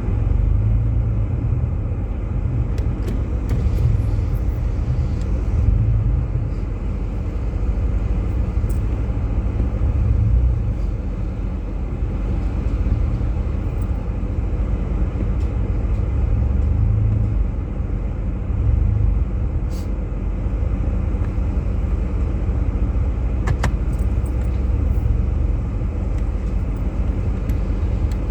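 Jeep Grand Cherokee driving on a snowy road, heard from inside the cabin: a steady low rumble of engine and tyres that swells and eases a little, with a few faint ticks.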